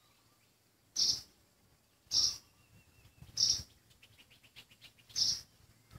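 A bird calling one short, high note over and over, four times about a second apart, with a faint quick run of ticks in between.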